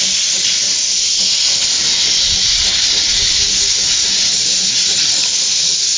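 Quarry Hunslet narrow-gauge steam locomotive letting off steam: a steady, loud hiss with no chuffing rhythm.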